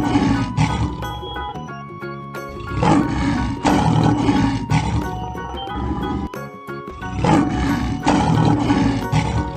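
Lion roaring several times over background music.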